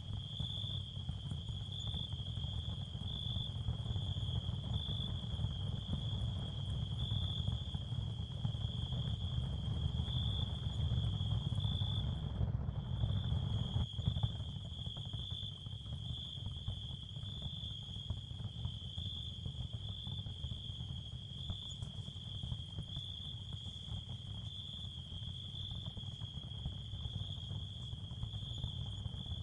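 Ambient nature soundscape of crickets chirring in a steady high trill over a low rumble. The chirring breaks off briefly about twelve seconds in.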